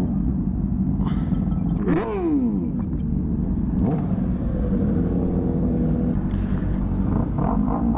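Honda CBR600RR's inline-four engine running low and steady, with a quick rev that rises and falls about two seconds in.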